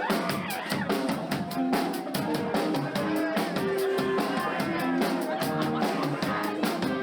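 Live band playing: a drum kit keeps a fast, steady beat under held melodic instrument notes.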